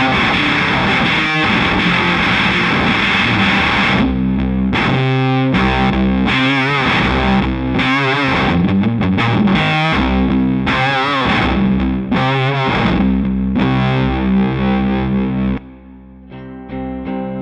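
Castedosa double-neck baritone electric guitar played with heavy distortion: a few seconds of thick sustained chords, then choppy stop-start riffing. Near the end it suddenly drops away for about a second, then comes back with lighter notes.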